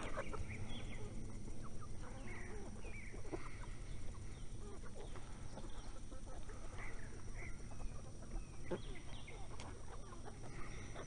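A flock of chickens at feeding time, calling in many short, overlapping clucks and squawks, with a few sharp knocks among them.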